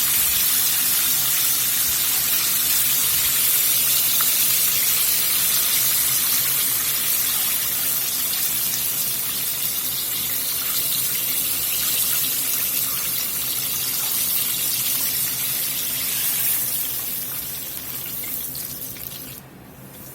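Chicken wings deep-frying in hot vegetable oil in a cast iron pot: a steady sizzle with small crackles, about eight minutes into the fry with the wings nearly done. It fades over the last few seconds and cuts off abruptly just before the end.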